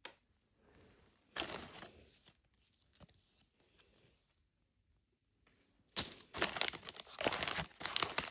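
Plastic packaging being torn open and crinkled by hand: a short tear about a second and a half in, then a long spell of dense crinkling from about six seconds on.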